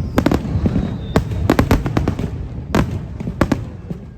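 Aerial fireworks bursting: a rapid run of sharp bangs and cracks over a low rumble, thinning out and fading toward the end.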